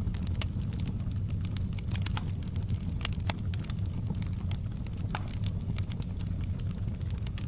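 Fire in a fireplace crackling, with frequent irregular sharp pops and snaps over a steady low rumble of burning.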